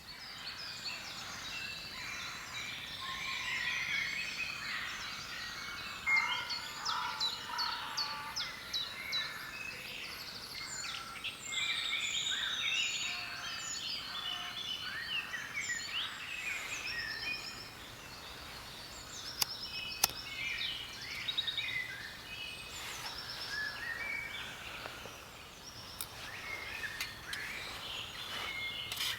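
Woodland dawn chorus: many birds singing and calling at once, overlapping chirps, trills and whistles, described as crazy loud. A few sharp clicks stand out near the middle and later on.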